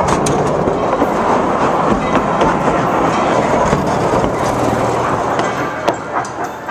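Tweetsie Railroad's narrow-gauge train rolling along the track, its wheels clattering steadily with many small clicks.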